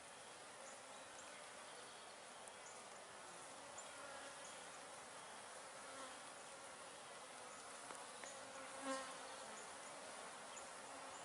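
Honey bees buzzing at a hive entrance as foragers fly in and out, a faint steady hum. One bee passes close, a louder buzz about nine seconds in.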